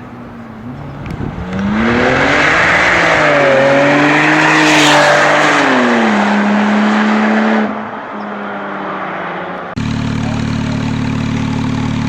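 Porsche 997 Turbo's twin-turbo flat-six running through an aftermarket exhaust: idling, then revved up for several seconds with the pitch climbing and wavering, and dropping back to idle. Near the end it switches abruptly to a louder, steady idle.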